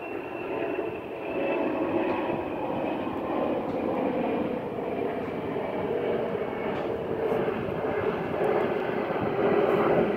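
Jet airliner engines running at departure power, a steady rush with a high whine, growing louder.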